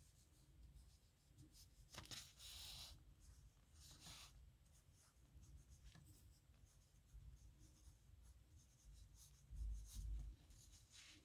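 Faint pen scratching on paper in irregular strokes of handwriting, with a brief low bump near the end.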